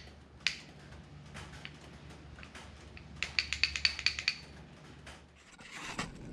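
Light metallic clicks from metal engine parts being handled: one click about half a second in, then a quick run of about ten ringing ticks around the middle. A low steady hum underneath stops near the end.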